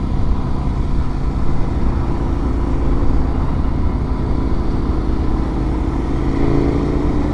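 Suzuki DR-Z400's single-cylinder four-stroke engine running on the move, with steady road and wind noise; the engine note rises near the end as it picks up speed.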